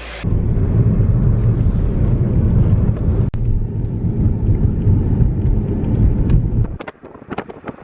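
A car being driven, with a steady low rumble of engine and road noise that starts suddenly and cuts off about seven seconds in, followed by a few faint clicks.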